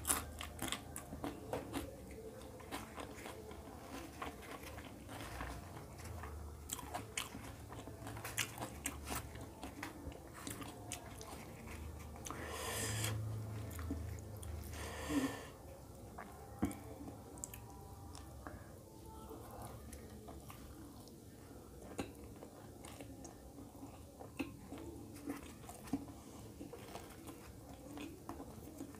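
Chewing and biting with many sharp mouth clicks. In the first seconds there is dense crunching as a raw green chilli is bitten and chewed, then softer, scattered chewing of food.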